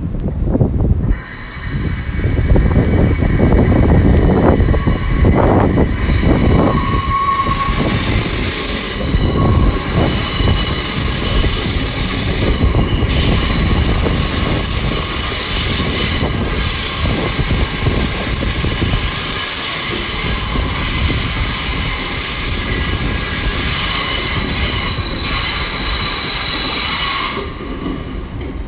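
Five-car Class 800 IET train pulling into a terminus platform: a loud low rumble of the train under a steady, high-pitched squeal. It starts abruptly about a second in and stops abruptly shortly before the end.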